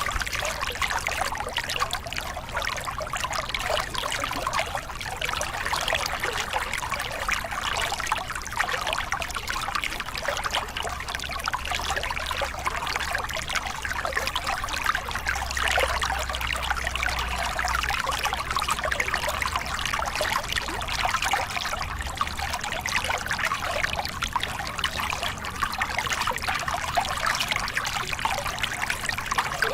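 Small cascade on a forest river: water pouring and splashing over rocks in a steady, unbroken rush.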